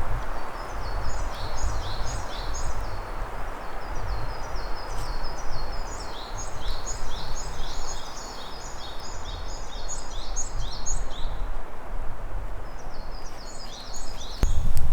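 A small songbird singing runs of short, high, downward-slurred notes, several a second, in phrases that break off and resume three or four times. Under it runs a steady rushing noise with a low rumble.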